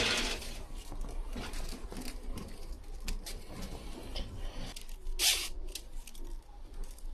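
Light clicks and rustles of hands and tools working inside a piano, with one louder scrape about five seconds in.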